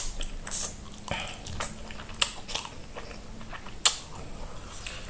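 Close-miked eating of creamy spaghetti: chewing and wet mouth smacks, broken by a few sharp clicks.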